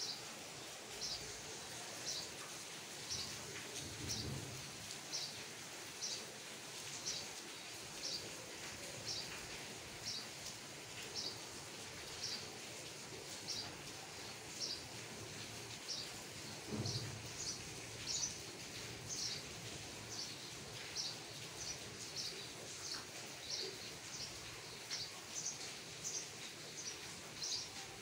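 A bird chirping over and over, short high chirps coming more than once a second, over a steady faint background hiss.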